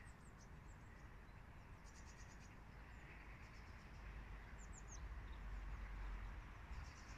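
Small birds chirping faintly in short, quick trills now and then, over a low steady outdoor rumble that grows louder about four seconds in.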